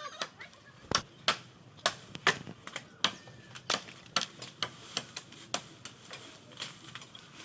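A series of sharp knocks and clicks, about two to three a second and unevenly spaced, a few of them much louder than the rest.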